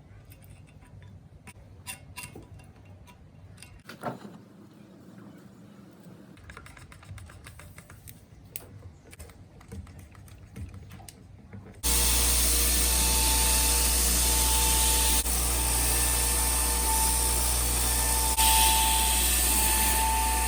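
Faint scattered ticks and taps, then a loud steady machine noise that starts abruptly about twelve seconds in and runs on, with a faint tone that comes and goes.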